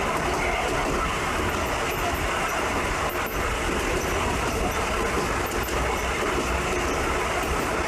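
Passenger train running along the track: a steady, even running noise with faint light clicks.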